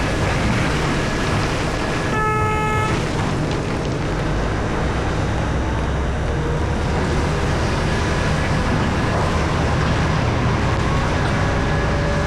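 Heavy mining machinery running steadily: the engines of a large hydraulic excavator and haul truck. About two seconds in, a horn sounds once, a short blast of under a second.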